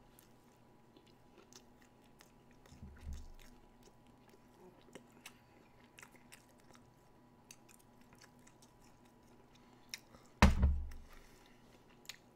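A person chewing and biting McDonald's chicken nuggets, with small wet mouth clicks throughout. There is a soft low thud about three seconds in and one short, louder low sound about ten seconds in.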